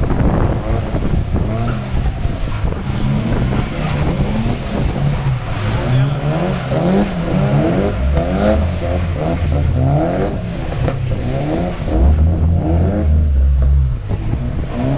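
Drift cars' engines revving hard and falling back over and over as the throttle is worked through the slides, with a deeper rumble swelling in twice.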